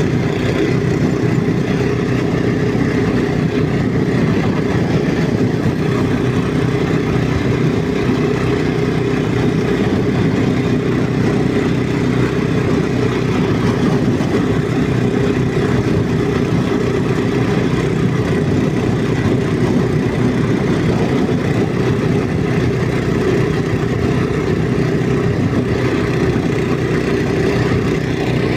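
Walk-behind tractor engine running steadily at a constant speed while the machine travels.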